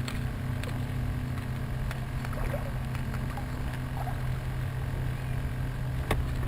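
A small motor hums at a steady low pitch, with a few faint clicks over it and a sharp click at the very end.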